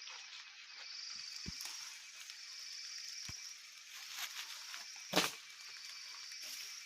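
Outdoor wild animal calls, high-pitched and coming in repeated phrases about a second long over a faint steady whine. A few short knocks sound among them, the loudest about five seconds in.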